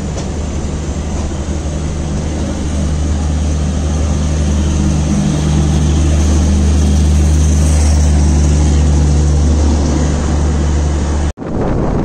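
Train running noise heard at an open coach door as another passenger train passes on the next track: a loud, steady low hum under the rumble and clatter of the passing coaches. Near the end the sound cuts off abruptly and gives way to wind buffeting the microphone.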